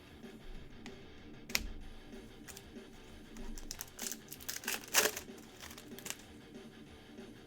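Trading-card pack wrappers crinkling and tearing open. There is one sharp crackle about a second and a half in, then a cluster of crinkles and snaps a few seconds later, the loudest about five seconds in.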